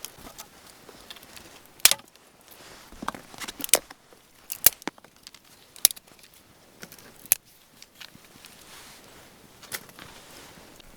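Sparse, sharp clicks and snaps, about eight of them at uneven intervals, the loudest about two seconds in and again near the middle.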